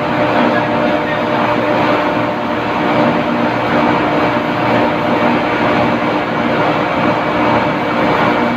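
Loud, steady machinery drone: a continuous dense rumble carrying a few constant hum tones.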